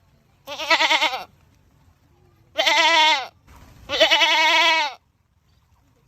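A goat screaming three times, each long wavering call with a falling pitch at its end, the last call the longest.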